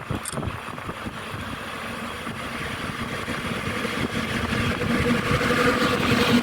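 Train approaching and growing steadily louder, with a rising rush of running noise and a steady hum that comes in near the end.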